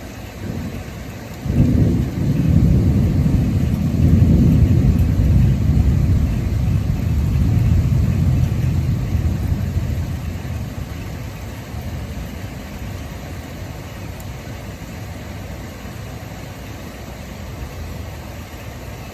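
Thunder: a sudden crack a second or two in that swells into a long, low rumble and slowly dies away over about ten seconds. Underneath is the steady hiss of heavy rain.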